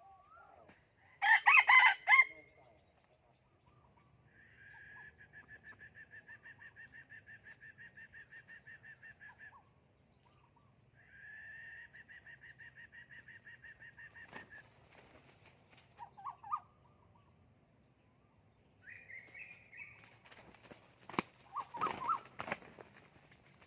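Decoy rooster crowing loudly about a second in, then wing-flapping and short calls near the end. Between them, a high rapid pulsing trill runs twice for several seconds each time.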